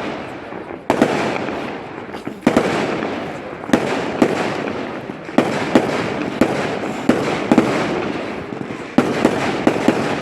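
Fireworks display: sharp bangs about once a second, each trailing off in a rolling echo, with a quick run of four bangs near the end.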